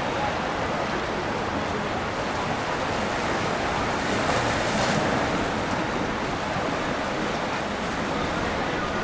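Steady rushing noise of wind and water, swelling a little about halfway through.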